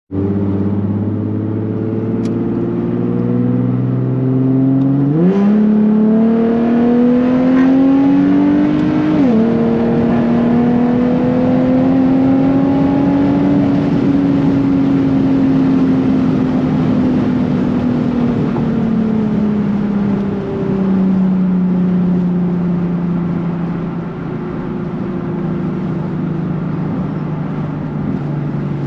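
Nissan 370Z's 3.7-litre V6 engine and exhaust under way. It revs up sharply about five seconds in and drops in pitch at a gear change about four seconds later. It then pulls steadily, rising a little before the note slowly falls and steps down again about twenty seconds in.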